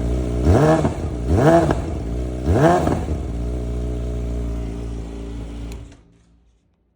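Yamaha R6 inline-four sport bike engine with a full aftermarket exhaust, still cold, blipped three times in quick succession, each rev rising and falling back. It then idles steadily, and about six seconds in a click is heard and the engine cuts off.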